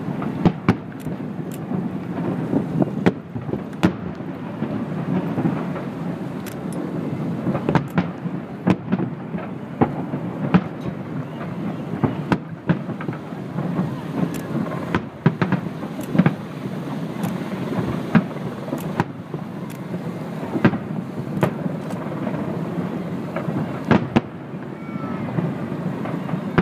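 Aerial firework shells bursting in quick, irregular succession: dozens of sharp bangs over a continuous low rumble.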